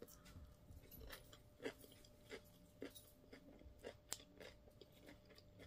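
Faint chewing of raw fennel salad close to the microphone, with small irregular crunches.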